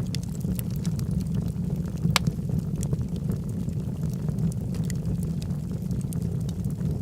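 Log fire burning in a fireplace: a steady low rumble of flames with scattered crackles and pops from the burning wood, and one sharper pop about two seconds in.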